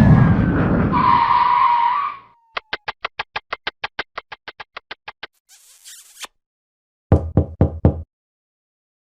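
A string of comedy sound effects: a noisy whistling tone that slides down and stops about two seconds in, then a rapid run of evenly spaced ticks, about six a second, fading away, and four quick loud knocks near the end.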